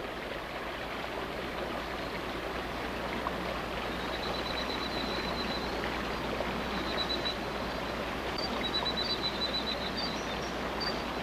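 Steady rushing of water, as from a forest stream in rain at night. From about four seconds in, a high-pitched, rapidly pulsed trill comes and goes above it.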